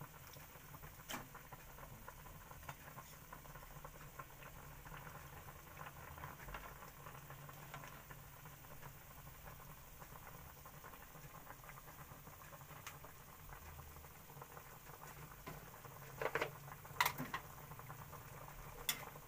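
Faint steady bubbling patter of spicy squirrel rica-rica simmering in the pan as it nears done, with a few short knocks near the end.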